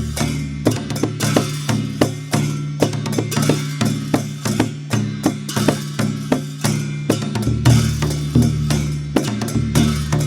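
Dhime, the Newar double-headed barrel drum, played in a fast, steady rhythmic pattern of about three to four strokes a second over a deep ringing boom.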